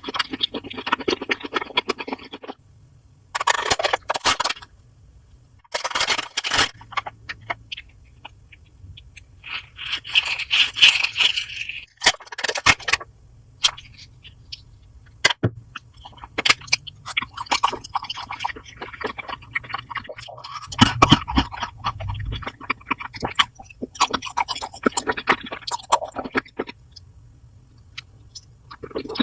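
Scraping and crunching of food and utensils, in separate bursts of a second or two with sharp clicks between.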